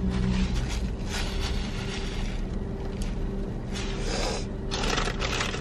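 Close-miked mouth noises of someone chewing a lettuce-filled sub sandwich, with a few louder crackly bursts about four and five seconds in, over a steady low hum.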